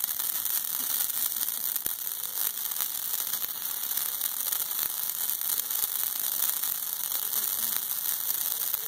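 Ground firework burning, spraying sparks with a steady hiss and fine crackling.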